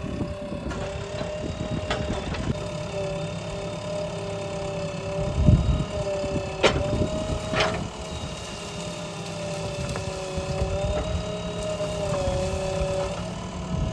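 Diesel engine of a JCB digger running steadily with a wavering whine, and two sharp knocks about halfway through.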